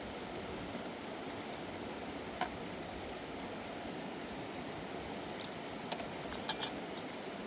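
Steady rushing of a fast river, with a few sharp clicks or knocks about two and a half seconds in and twice around six seconds.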